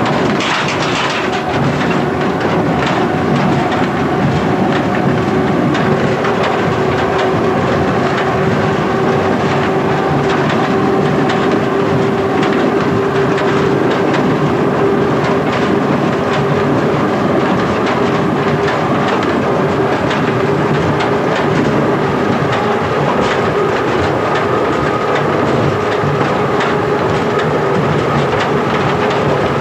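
1927 Standard stock electric tube train running at speed, heard from the driving cab, with the clickety-clack of wheels over rail joints and a steady whine running under the rumble.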